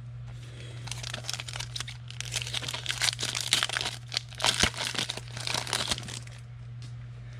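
Foil wrapper of a trading card pack being crinkled and torn open, a run of crackling rustles lasting about five seconds. A steady low hum runs underneath.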